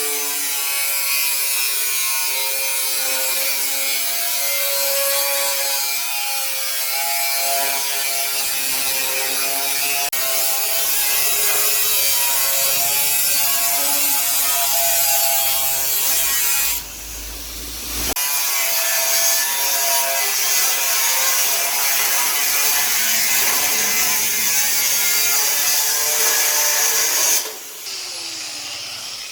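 A steady mechanical buzzing rattle from a tool at work on metal, with a short break partway through and a drop near the end.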